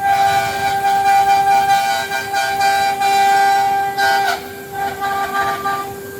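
5-axis CNC router's spindle whining at high, steady speed while it cuts, with cutting noise underneath. The pitch dips briefly about four seconds in, as the cutter's load changes.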